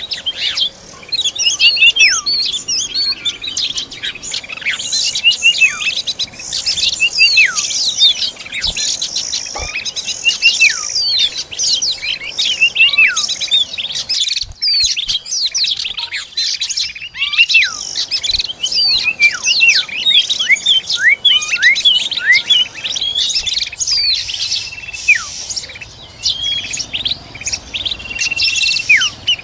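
Oriental magpie-robins (kacer) chirping: a dense, unbroken run of quick, high chirps that slide downward in pitch.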